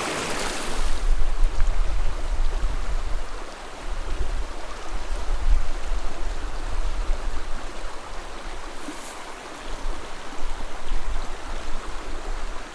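Small creek water running steadily over rocks, with a low rumble that rises and falls.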